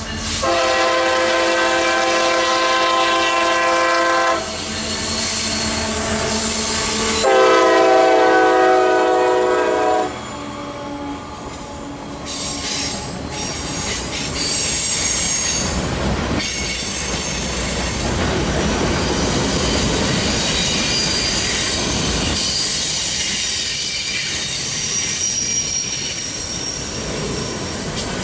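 Diesel locomotive air horn of a CSX SD40-3 sounding two long blasts, the second louder. The locomotive then goes by and loaded flatcars roll past with steady wheel-on-rail noise and high thin flange squeal.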